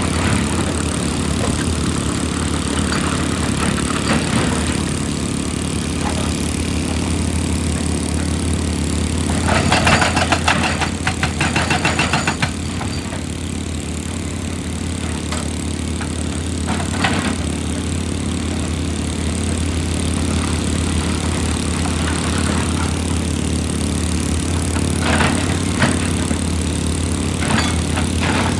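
Large engine running steadily with a low hum. About ten seconds in there are roughly three seconds of rapid metallic rattling. A few single knocks follow later, most of them near the end.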